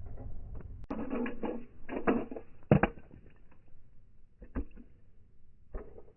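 Small 1/64 scale diecast cars clattering and knocking together in a crash: a run of rattly knocks, the loudest one about two and three-quarter seconds in, then two lighter knocks later.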